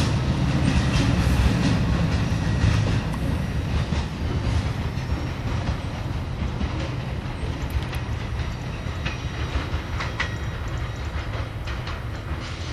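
Freight train's last cars rolling away on the rails. The low rumble of the wheels fades steadily as the train recedes.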